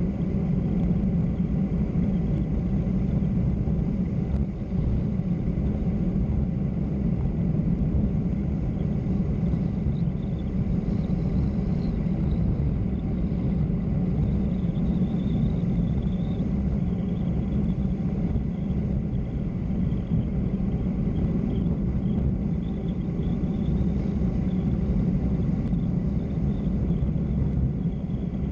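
Steady low rumble of wind rush and road noise on a microphone moving fast down a mountain road, with a faint high whistle wavering in and out from about ten seconds in.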